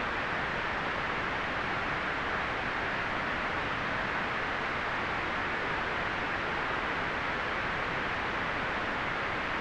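Steady white noise for relaxation: an even, unbroken hiss that never changes, fullest in the middle of the range and dull in the highest treble.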